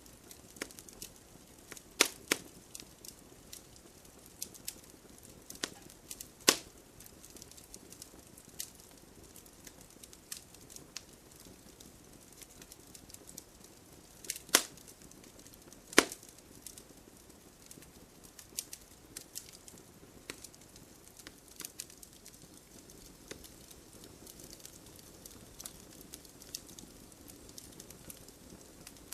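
Wood fire crackling: irregular sharp pops and snaps over a faint low hiss, with a few louder pops about 2, 6, 14 and 16 seconds in.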